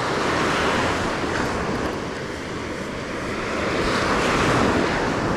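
Ocean surf breaking and washing on the beach, swelling twice, with wind buffeting the microphone.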